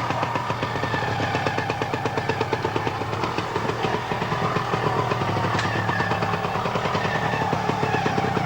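Motorcycle engine of a trials sidecar outfit running at low revs with a fast, even firing beat and some changes in pitch, as it works through a rocky section.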